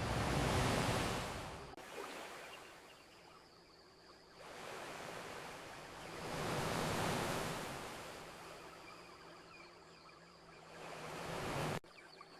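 Ocean waves washing onto a beach: three surges of hiss that build and fade. The last one cuts off abruptly near the end.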